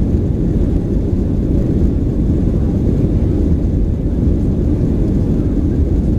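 Cabin noise inside a Boeing 737-900: a steady, deep rumble of the CFM56-7B jet engines and airflow, heard from a window seat.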